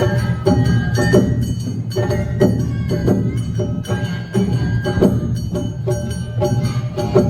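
Live Awa Odori festival band music: drums and a clanging kane hand gong striking a steady beat about twice a second, with a bamboo flute playing held notes over it.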